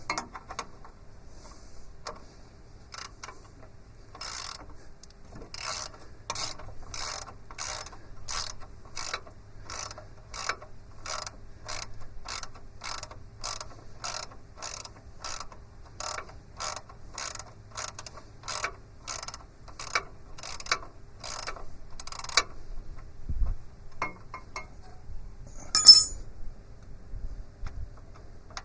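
Hand ratchet wrench clicking in short, even strokes, roughly two a second, as a sub-frame bolt is backed out. The clicking stops after about twenty seconds, and a single sharp metal clink follows a few seconds later.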